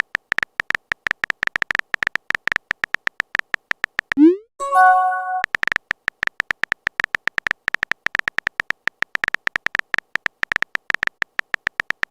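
Chat-style typing sound effect: a fast, uneven run of short beeping clicks, as for letters appearing one by one. About four seconds in it breaks for a quick rising blip and a short electronic chime, like a message being sent, and then the typing clicks start again.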